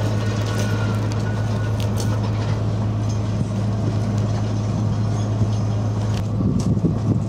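Engine of a Type 94 waterfront minelaying vehicle running steadily with a low drone, with scattered short clicks or splashes over it.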